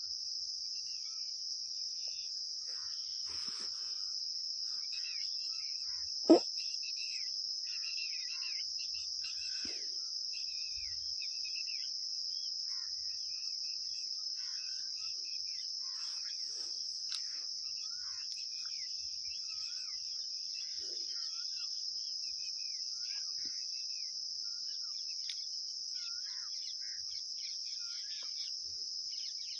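Steady high-pitched chirring of crickets, with faint scattered bird chirps. A single sharp clink sounds about six seconds in.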